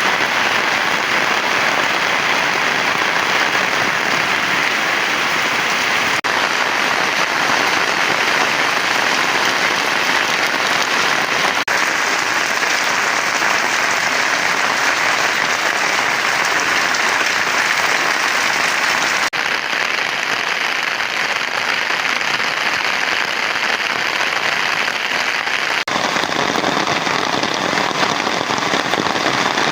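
Heavy rain falling, a loud, steady hiss. Its tone shifts abruptly a few times.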